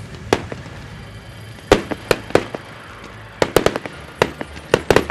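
Fireworks going off: a string of sharp bangs at irregular intervals, the first about a third of a second in, several close together around the middle and two more near the end, over a steady low rumble.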